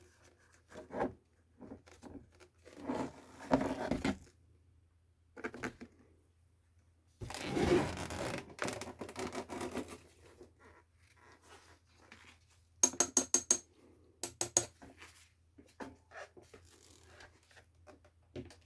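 Hands working on a small appliance: scattered scrapes and knocks of plastic and metal parts, a longer scraping rustle, and about two-thirds of the way through a quick run of sharp clicks followed by a few more.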